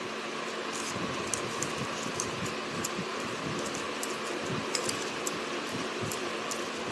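People eating biryani: scattered soft clicks and smacks of chewing over a steady background hiss.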